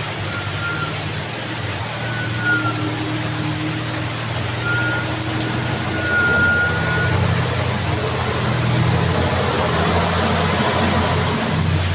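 A heavy diesel truck's engine running steadily under load, growing louder about halfway through, with a few brief high whistling tones over it.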